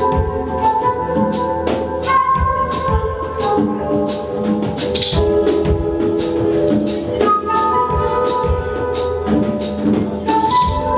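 Live band music, with sustained instrumental notes over a drum kit keeping a steady beat of about two to three strokes a second.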